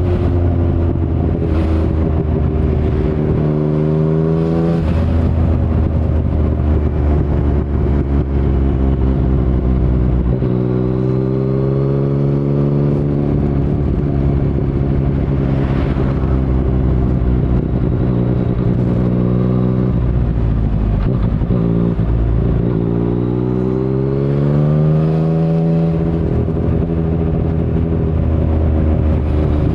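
2019 Yamaha MT-09's 847 cc inline three-cylinder engine through an Akrapovic carbon full-system exhaust with no dB killer, ridden at speed. The engine note climbs under acceleration and drops back at each gearchange, several times over.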